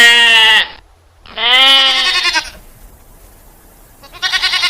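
Goat bleating three times. There are two long bleats in the first half, the first already under way at the start, and a short quavering bleat near the end.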